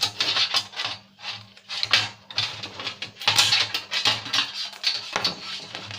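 Plastic and metal parts of a DVD player's front panel clattering and scraping as they are handled and pried apart, a quick irregular run of clicks and rattles over a low steady hum.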